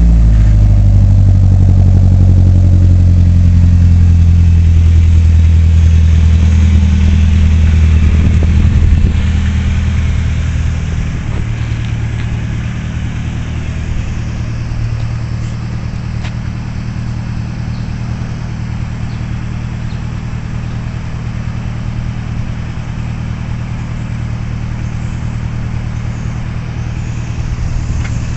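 Nissan S13 convertible's engine idling through a new exhaust just after starting: a loud, fast idle that slowly drops in pitch, then settles to a quieter, steady low idle about nine to ten seconds in.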